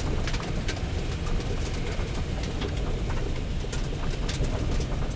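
Steady low rumble of a car rolling on tow with its engine dead, with scattered sharp clicks and rattles.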